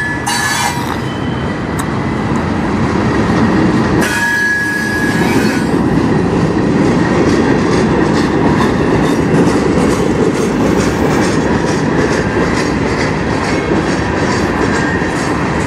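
Freight cars of a mixed manifest train rolling past: a steady, loud rumble of steel wheels on rail, with a brief high wheel squeal about four seconds in and a fast, regular clacking of wheels over rail joints through the second half.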